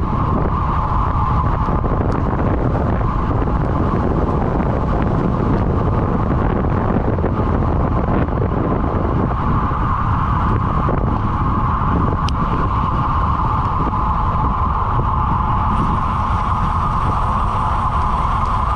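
Wind rushing over a camera microphone on a road bicycle riding at speed: a loud, steady rushing noise with a constant hum running through it.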